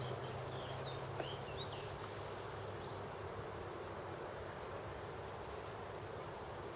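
Wild birds singing: a few short rising chirps in the first two seconds, then high, falling whistled notes twice, about two and five seconds in, over a steady outdoor background noise.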